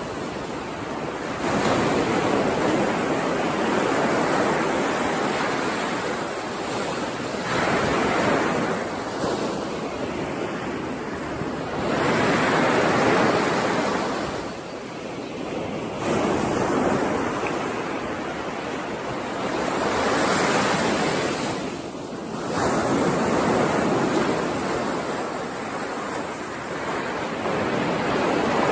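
Sea waves breaking and washing in, the surf swelling and ebbing every four to six seconds.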